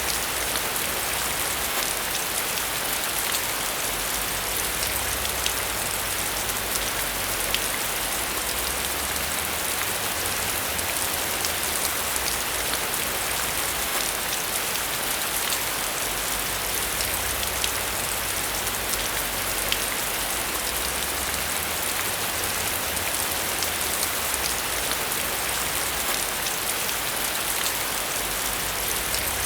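Steady rain falling on a surface, an even hiss with scattered individual drop ticks and no lulls.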